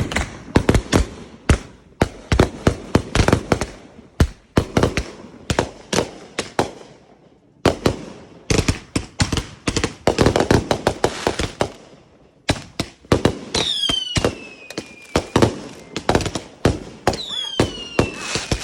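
Fireworks going off: a dense, irregular string of sharp bangs and crackles with brief lulls. Two whistles falling in pitch cut through the bangs, about two-thirds of the way in and near the end.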